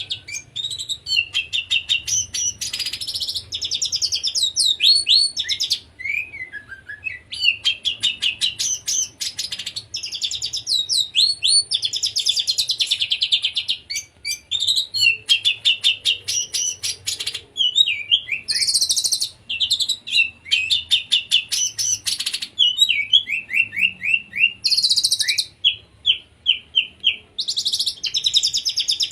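Oriental magpie-robin (kacer) singing continuously in the frantic 'konslet' style: fast, varied phrases of rapid trills, repeated notes and short sweeping whistles, with brief high buzzy bursts.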